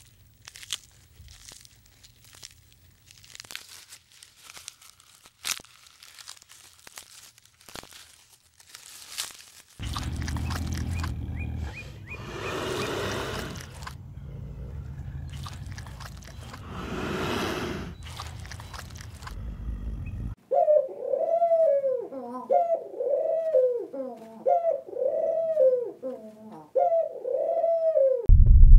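Feral pigeons cooing, a run of about eight rising-and-falling coos in the last third. Before them come faint scattered clicks, then a low rumble with two long breathy swells.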